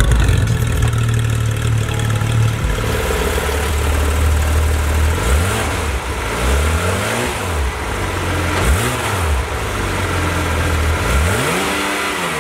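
Porsche 911 GT3 RS naturally aspirated 4.0-litre flat-six running through its centre twin exhaust, idling steadily at first. From about five seconds in it is revved several times, each rev rising and falling back toward idle.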